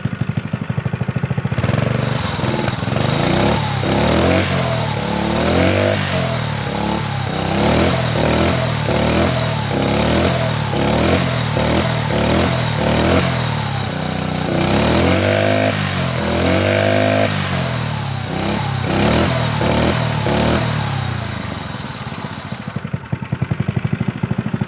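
Honda GX120 single-cylinder four-stroke minibike engine, governor bypassed, being revved repeatedly: it idles briefly, then is blipped up and back down over and over, roughly once a second, with a couple of longer, higher revs past the middle, and it drops back to idle near the end.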